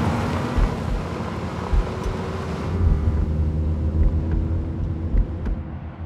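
Low rumble of a car engine driving, with a steady low pulse about every half second; the higher sounds drop away about three seconds in, leaving a deeper, duller rumble.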